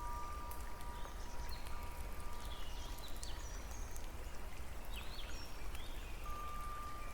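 Relaxation nature ambience: a steady rush of water with short high chirps scattered through it. A ringing wind chime tone fades out about a second in, and another chime tone starts near the end.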